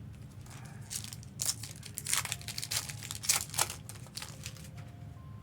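Foil wrapper of a Pokémon TCG booster pack crinkling and tearing open in the hands: a run of irregular sharp crackles, busiest between about one and four seconds in.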